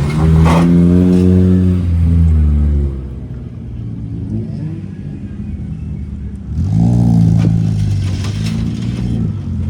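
Opel Corsa B engine revved up, dropping back to idle about three seconds in, then revved again near seven seconds in.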